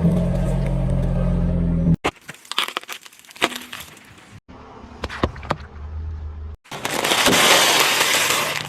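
A car running over and crushing objects, heard in short edited cuts. First the engine runs steadily, then come sharp cracking and crunching snaps, and near the end a loud rushing hiss lasts about two seconds.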